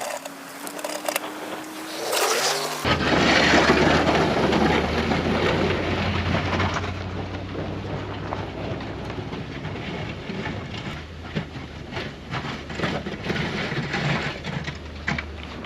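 Blizzard wind rushing over the microphone with a steady low engine hum beneath it and scattered ticks. In the first three seconds a rising tone is heard, and then the sound changes abruptly.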